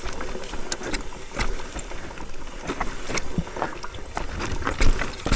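Wind buffeting the camera microphone with a low rumble, over scattered sharp clicks and crunches of dirt and gravel.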